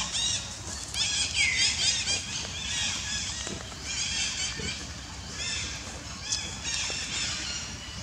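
Forest birds chirping in rapid runs of high, repeated notes, coming in bursts of about a second. A short falling call sounds early on, and there is a sharp click about six seconds in.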